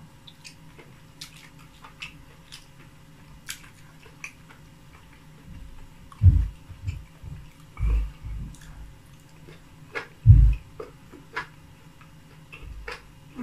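Close-miked eating: wet mouth clicks and smacks of a person chewing soft fufu with soup, eaten by hand. A few dull low thumps, about 6, 8 and 10 seconds in, are the loudest sounds.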